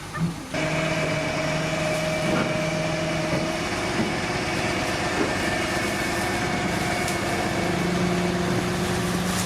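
Heavy diesel earthmoving machinery, a bulldozer or dump truck, running steadily with a held engine note and whine. It sets in suddenly about half a second in, and its low note shifts slightly higher near the end.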